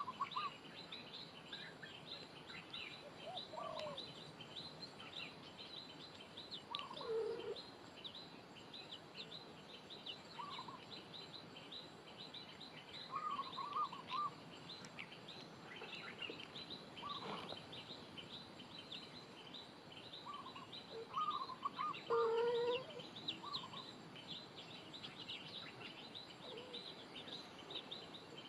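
Birds chirping continuously in a dense chorus of quick high chirps, with short lower calls breaking in every few seconds.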